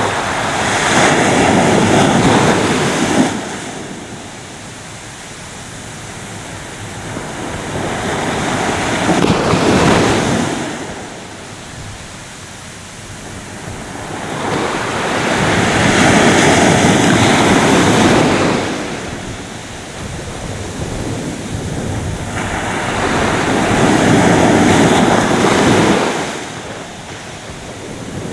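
Ocean waves breaking: four surges of rushing surf, each swelling up and washing away, about every seven to eight seconds.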